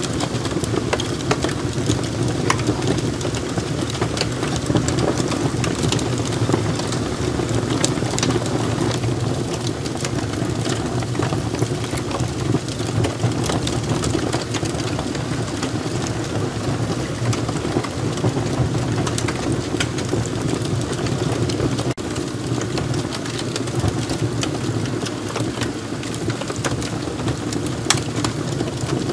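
Wood logs burning in a fireplace: a steady low rush of flame with many small, sharp crackles and pops scattered throughout.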